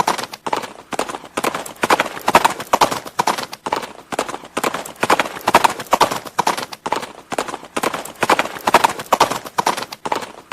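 Horse hoofbeats clip-clopping in a steady rhythm, the hoof strikes falling in repeating clusters of several quick knocks.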